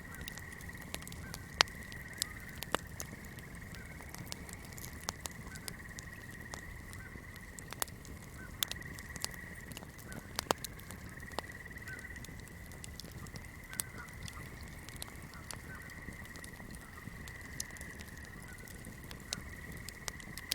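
Swamp night ambience: a steady high-pitched chorus of frogs with scattered short calls below it, over irregular sharp crackles of a burning flame.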